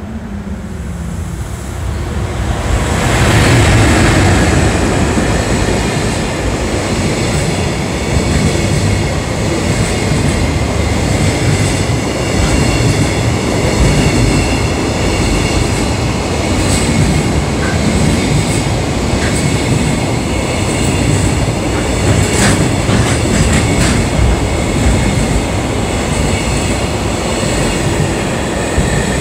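Long freight train of container wagons hauled by an electric locomotive, passing at speed. The noise builds over the first few seconds as the locomotive draws level, then holds as a steady rumble and clatter of wagon wheels on the rails, with a few sharp clicks in the second half.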